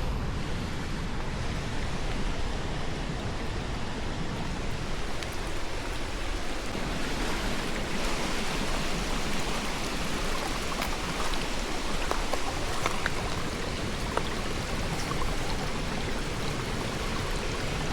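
Stream running, a steady unbroken sound of flowing water.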